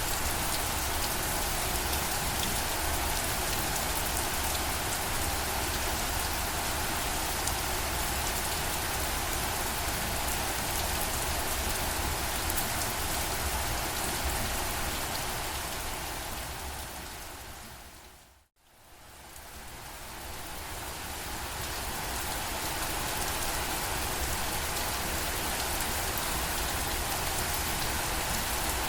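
Steady rain falling, an even hiss. It fades out to silence about eighteen seconds in and fades straight back up over a few seconds, the join of a looped rain recording.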